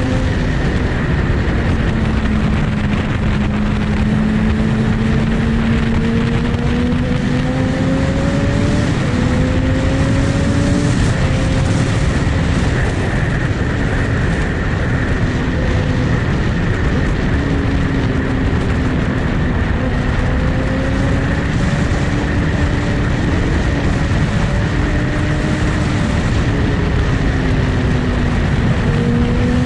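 Superbike engine running at a steady cruise, its pitch drifting slowly up and down, over a loud rushing noise.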